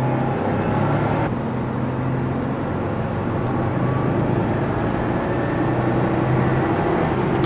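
A car engine running steadily at low revs, giving an even low hum.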